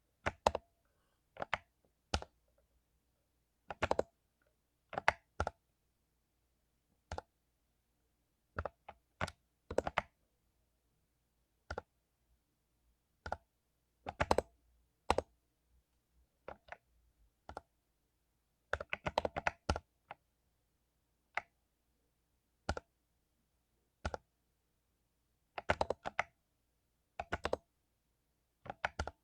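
Mechanical keyboard with lubed Cherry MX Silver linear switches being typed on in short, irregular bursts of keystrokes and single presses, with pauses of a second or more between them.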